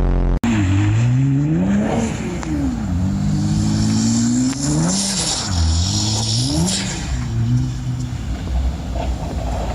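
Car engine revving up and down several times, its pitch rising and falling repeatedly.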